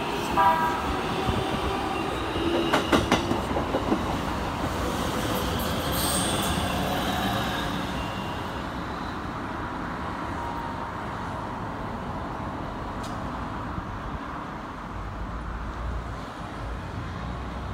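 Keikyu electric commuter train running past and away, its wheels clacking sharply over rail joints about three seconds in, with a short high wheel squeal a little later. After that the running noise slowly fades.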